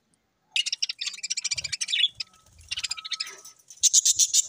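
A flock of budgerigars chattering, a dense run of rapid high chirps coming in three spells after a brief silence at the start.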